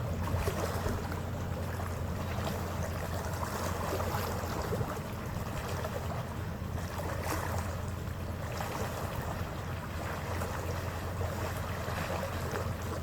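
A ferry's engines drone steadily in a low hum under the rush of water along the hull, with wind on the microphone.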